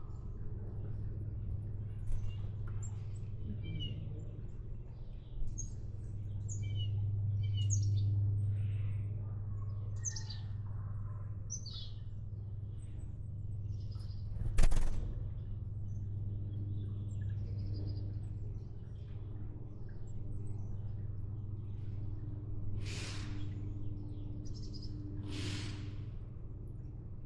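Small birds chirping and calling, many short high chirps scattered through, over a steady low hum. A sharp click about halfway through is the loudest sound, and two short rushing sounds come near the end.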